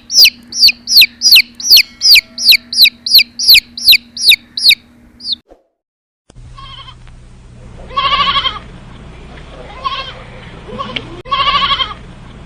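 A rapid series of short, high, falling chirps, about three a second, that stops abruptly about five seconds in. After a moment of silence a different animal calls twice with longer, lower, wavering cries over steady background noise.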